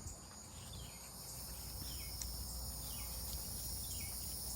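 Evening insect chorus of crickets or katydids: a steady high-pitched trilling, with a short falling chirp repeating about once a second over it.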